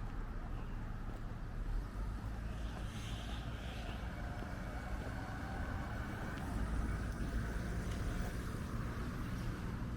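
Urban street traffic: motor vehicles passing with a steady low rumble that grows a little louder about two-thirds of the way through.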